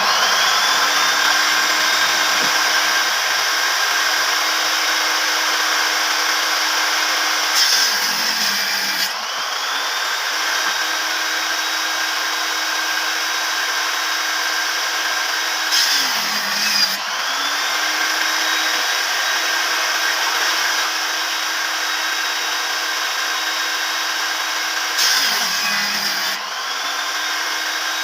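Electric woodworking power tool running steadily. Three times, roughly every eight seconds, its motor pitch sags briefly under load as it bites into the wood, then comes back up to speed.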